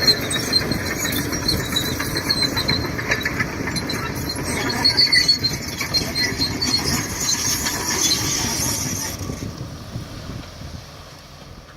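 Shantui DH17C2 crawler bulldozer at work: engine running with the squealing and clanking of its steel tracks. The noise fades out after about nine seconds.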